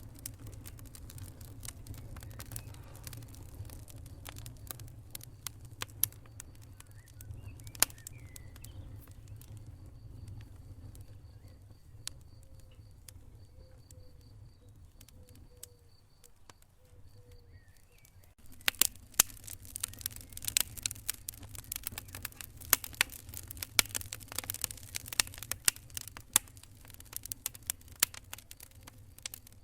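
Wood fire burning in a fireplace, crackling and popping over a low steady rumble. The pops are sparse and quieter through the middle, then turn much denser and louder about two-thirds of the way in.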